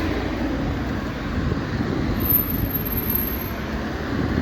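Road traffic: a vehicle passing close by, a steady rushing noise that grows a little stronger midway.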